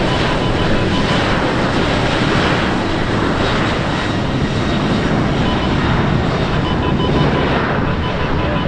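A fixed-wing aircraft's engines running at power close by: a loud, steady roar that does not change.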